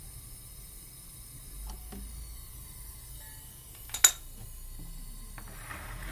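Hand tools and small metal parts being handled: a few light knocks, then one sharp click about four seconds in, and a brief soft hiss near the end.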